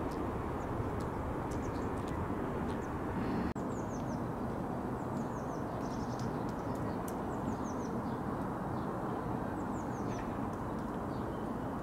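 Small birds chirping in short, high, falling calls, in several bursts, over a steady low rumble.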